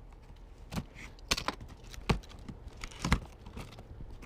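The autopilot's shipping box being forced open by hand: a series of sharp, irregular cracks and clicks of packaging, about six in all, the loudest near the middle.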